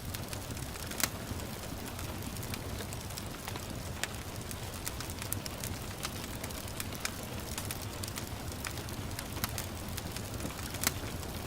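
Wood fire crackling in a fireplace, with irregular sharp pops, the loudest about a second in and near the end, over a steady hiss of gentle rain and a low rumble.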